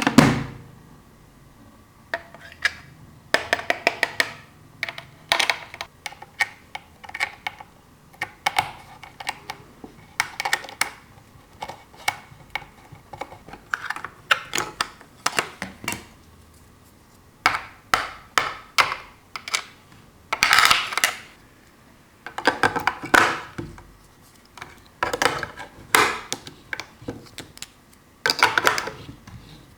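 Small plastic toy parts being handled, clicking and clattering against each other and a hard surface in irregular bursts, with a few louder rustling scrapes.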